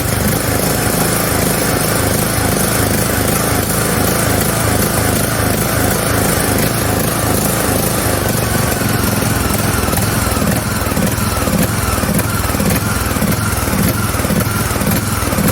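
John Deere LA110 lawn tractor engine running with a regular pulsing beat. The engine runs but lacks power, and the owner describes it as almost like a misfire.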